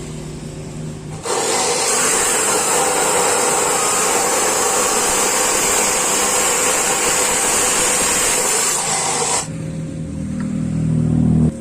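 Power tool with a steady rasping noise for about eight seconds, cutting in suddenly and stopping suddenly. A low motor hum comes before it and returns near the end, rising in pitch.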